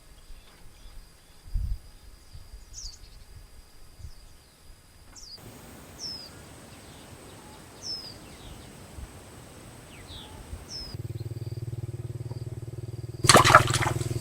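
Outdoor ambience with a bird repeating a short, high, downward-sweeping chirp every second or so over a faint steady high whine. A low steady hum comes in near the end, followed by a sudden loud noisy burst.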